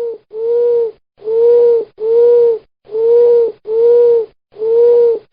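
An owl hooting: a steady series of about seven even-pitched hoots, each about half a second long, coming roughly one every 0.8 seconds.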